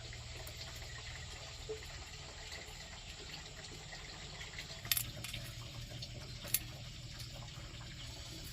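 Steady sound of water, with two sharp clicks about five and six and a half seconds in.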